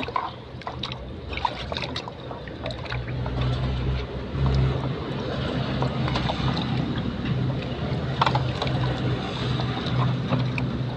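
Water running and sloshing as a mason's trowel is rinsed, over a steady low rumble, with a few light clicks.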